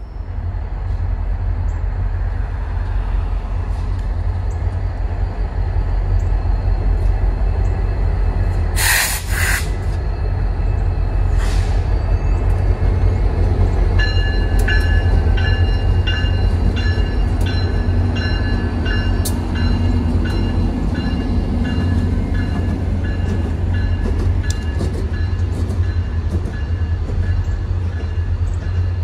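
CSX passenger train hauled by F40PH diesel locomotives passing, a heavy steady low rumble. A short sharp burst of noise cuts in about nine seconds in, and from about halfway a regular ringing ticking joins the rumble.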